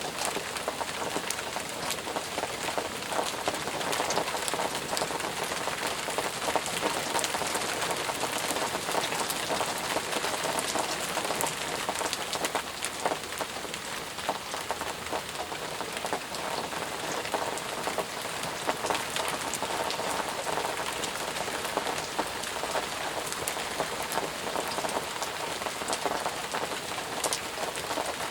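Intense, steady rainfall: an even hiss with many individual drops hitting as sharp ticks.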